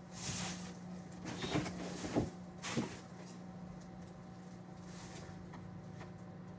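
Steady electrical hum of a running microwave oven. Over it come a few short knocks and rustles in the first three seconds.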